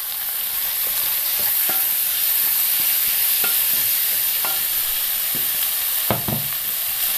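Chopped tomatoes frying with onions and spices in oil in a non-stick kadai, a steady sizzle. A wooden spatula stirs and scrapes against the pan, with a few light knocks.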